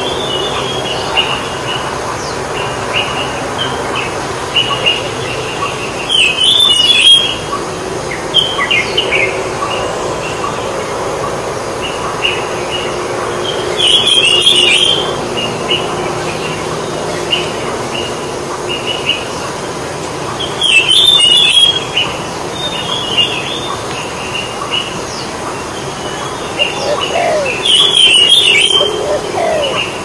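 Small birds chirping and twittering continuously, with a louder burst of chirps about every seven seconds, over a steady background noise.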